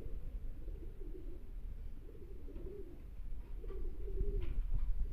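Domestic racing pigeons cooing, a run of low warbling coos one after another.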